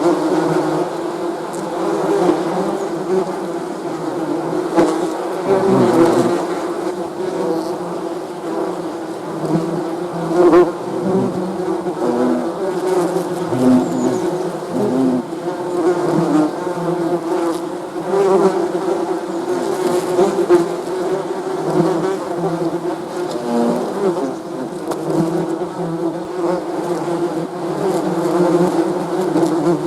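Many bees buzzing together in a steady, dense drone of overlapping wingbeat tones that waver and swell slightly as individual bees pass close.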